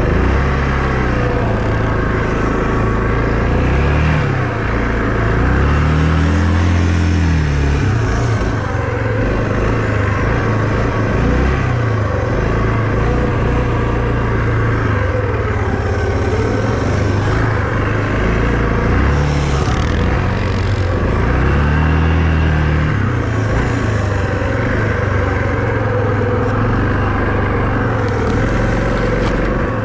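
A vehicle engine running loud, revving up and falling back several times, with a steady run between the revs.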